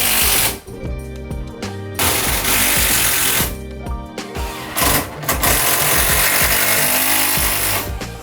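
A power tool running in several bursts of one to four seconds, with short pauses between them, over background music with a steady beat.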